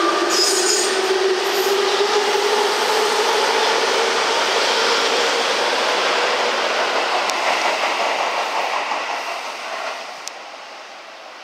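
Tobu 20000-series-family electric commuter train pulling out, its traction motor whine rising slowly in pitch as it accelerates over the noise of the wheels and running gear. About ten seconds in, the sound drops to a much quieter hum.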